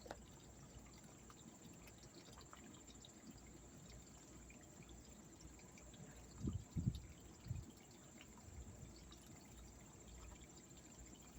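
Faint, steady trickle of water from a garden pond's waterfall, with a few dull low thumps about six and a half to seven and a half seconds in.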